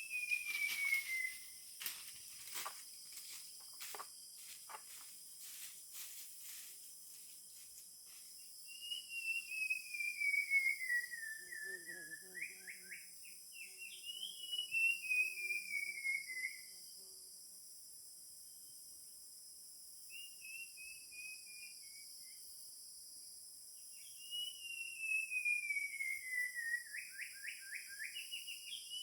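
A forest bird singing long, slow whistled phrases, each sliding down in pitch and ending in a quick run of rising notes, repeated three times. A steady high buzz of forest insects runs underneath, and a series of sharp clicks falls in the first several seconds.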